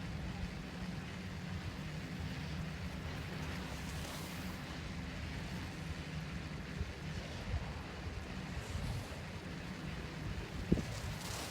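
Steady low rumble with a faint constant hum and an even hiss over it, and a single short knock near the end.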